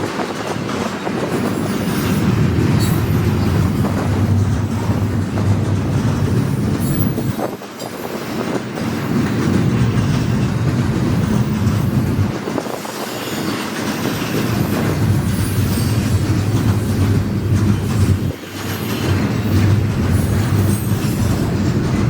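Freight train's cars rolling past at close range, with a steady rumble of wheels on the rails and clacking over the rail joints. The level dips briefly twice, about a third of the way in and again near the end.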